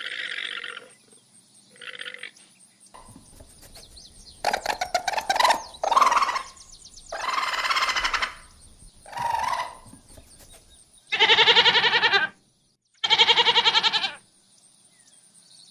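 Goat bleating: a series of separate calls with a quavering pitch, the two near the end the loudest and longest.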